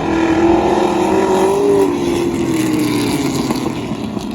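V8 stock car engines running on the track, their revs climbing for about two seconds and then easing off.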